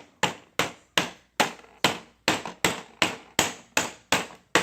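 Toy hammer banging on a kids' tool bench in a steady rhythm of sharp knocks, about two and a half a second.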